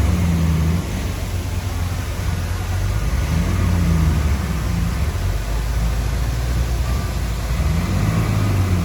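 Heavy diesel engine of earthmoving machinery running under load, its note dropping a little under a second in, then rising and falling as the load changes.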